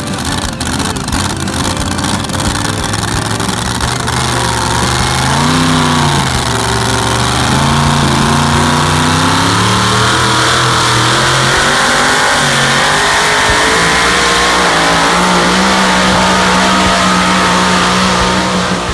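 A competition pulling vehicle's engine at high revs during a pull. The pitch rises and wavers about five seconds in, then holds loud and steady at full throttle for about ten seconds before dropping off near the end.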